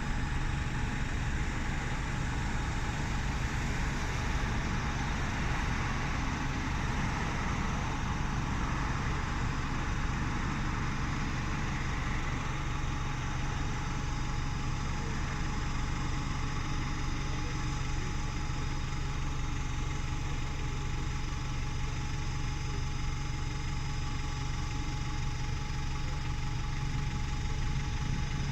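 Parked bus engine idling steadily, left running with nobody at the wheel.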